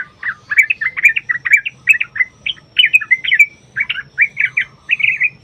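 Yellow-vented bulbul (trucukan) singing a long, fast run of short chattering notes, about four to five a second, ending just as the run stops near the end.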